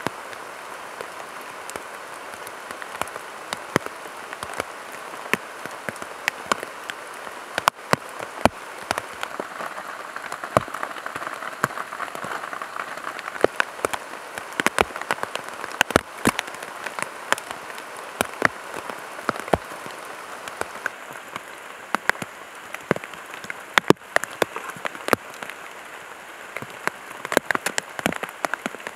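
Rain falling on plastic tarpaulin sheeting: a steady hiss scattered with many sharp taps of single drops striking the plastic.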